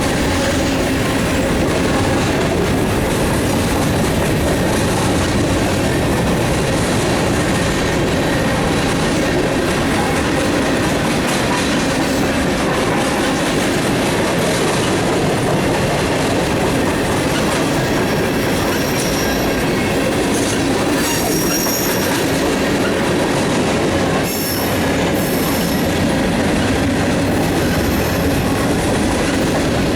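Mixed freight train's cars rolling past at close range, steel wheels on rail making a steady loud noise with clickety-clack over the rail joints. Brief high-pitched wheel squeals come and go in the second half.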